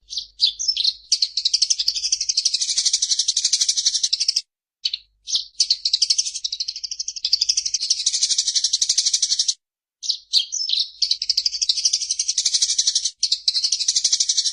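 Eurasian tree sparrows giving fast, unbroken chattering calls in long runs of several seconds, each broken by a brief pause. This is the agitated rolling chatter of sparrows fighting.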